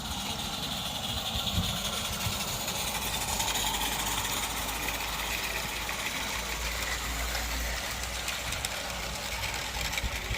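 Live steam garden-railway locomotive running, a steady hiss over a low rumble.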